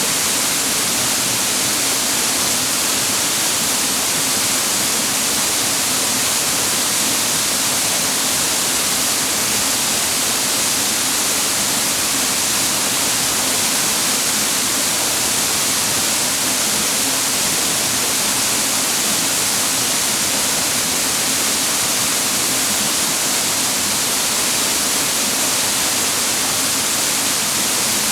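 Clear mountain water cascading over rocks, a loud steady rush with no change.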